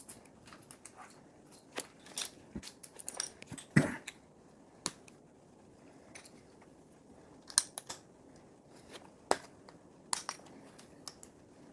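Plastic Lego pieces being handled and pressed together: scattered sharp clicks and light rattles, the loudest about four seconds in.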